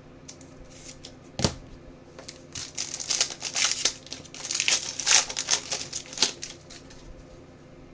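A sharp click, then crinkling and tearing of a trading-card pack's plastic wrapper as it is torn open.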